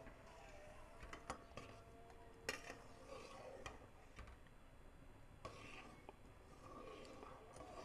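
Faint kitchen clatter: metal utensils and dishes clinking, with a few sharp knocks, the loudest about two and a half seconds in.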